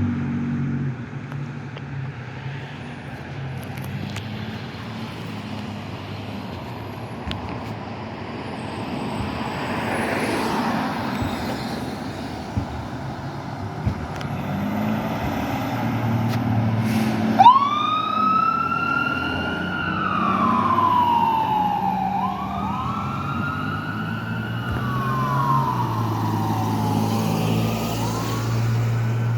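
Fire engine's diesel engine running, then a short sharp click a bit past halfway, after which its siren starts wailing in long rising-and-falling sweeps that repeat to the end.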